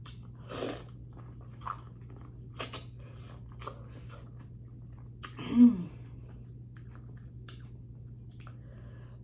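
Close-miked chewing, with wet mouth smacks and small crunches, of someone eating sauce-covered corn on the cob. A brief murmured vocal sound comes about halfway through, over a steady low electrical hum.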